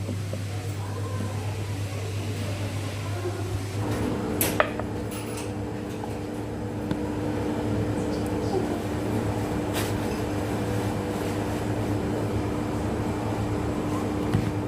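A steady machine hum, joined about four seconds in by a second, higher steady hum, with two sharp clicks along the way.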